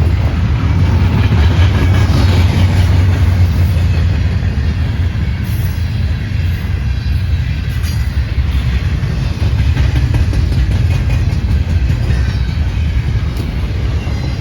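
A train rolling past with a steady, heavy rumble of wheels and railcars, and a few sharp clicks over the rail.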